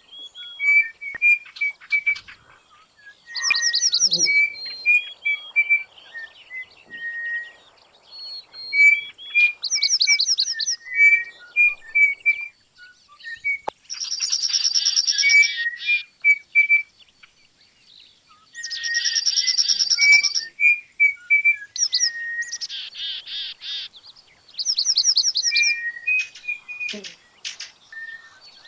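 Several birds singing and calling together: short repeated whistled notes and bursts of fast, high trills, one after another throughout.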